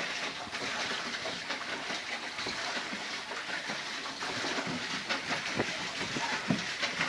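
Small motor boat under way: a steady rushing, rattling clatter of its motor and the water, with many short knocks.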